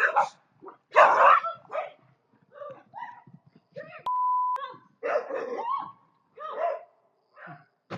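A dog barking and yelping in short bursts, the loudest about a second in. A short steady beep sounds about halfway through.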